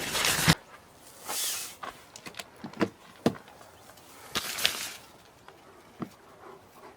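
Scattered light clicks and knocks with two short rustling swells, following a louder noisy sound that cuts off abruptly about half a second in.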